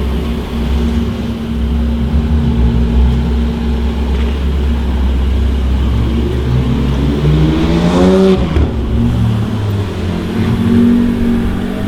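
Car engine running with a low, steady drone, then revving up in rising pitch about six to eight seconds in before dropping back.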